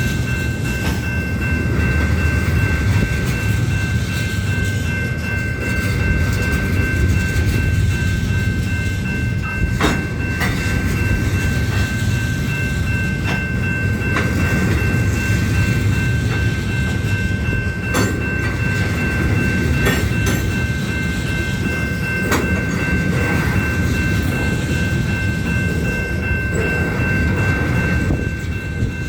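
Union Pacific freight train's cars rolling past, a steady rumble of wheels on rail with a few sharp clanks, one about ten seconds in and another about eighteen seconds in. A thin high whine holds steady throughout.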